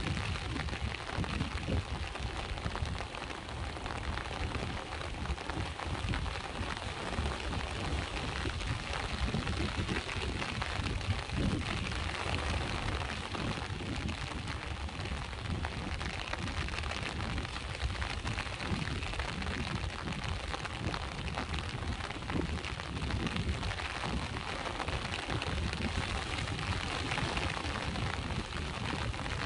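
Steady rain falling, with the low wash of sea waves underneath.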